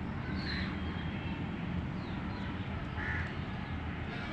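Two short, harsh bird calls, one about half a second in and one about three seconds in, with a few faint higher chirps, over a steady low rumble.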